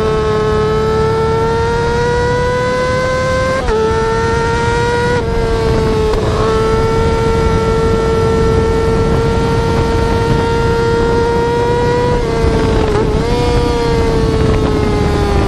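Yamaha R6 inline-four engine running at very high revs: a sustained high-pitched wail that holds steady and creeps upward. The pitch drops briefly at about 4, 5, 6 and 13 seconds in, like gear changes.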